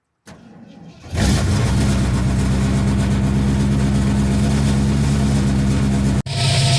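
Ford Econoline E350 van engine starting: a short, quieter cranking-like stretch, then the engine catches about a second in and runs steadily. A sudden brief break near the end, then it runs on.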